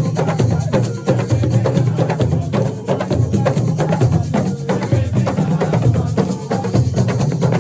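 Assiko music: dense, quick hand-drum and percussion strikes with a steady strong low end, playing without a break.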